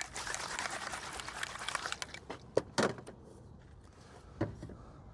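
Rustling handling noise for about two seconds, then a few light knocks, typical of store-bought supplies such as spray cans being put down and moved about.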